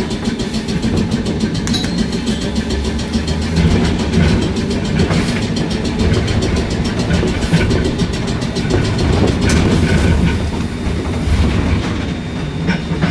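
Randen tram running on the rails: a steady low rumble with occasional light clicks every couple of seconds.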